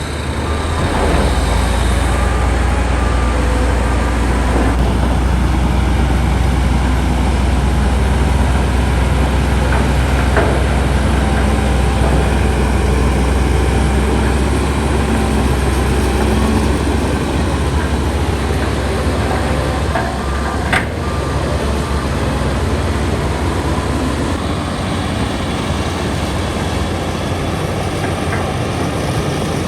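Heavy diesel earthmoving machinery running steadily, with a deep engine rumble throughout. One sharp metallic clank about 21 seconds in.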